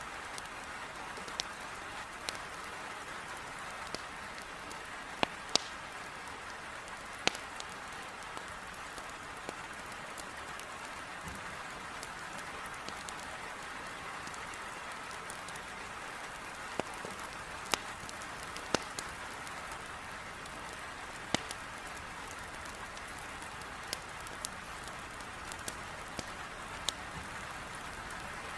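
Heavy rain beating steadily on a window, with irregular sharp pops and snaps from wood burning in a fireplace scattered over it.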